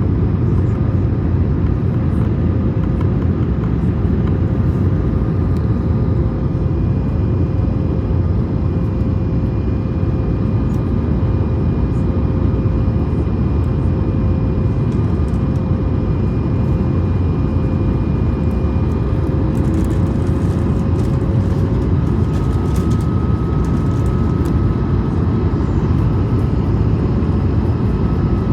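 Airbus A220's Pratt & Whitney geared turbofan engines and airflow making a steady, loud rumble on landing approach, with a few steady humming tones over it.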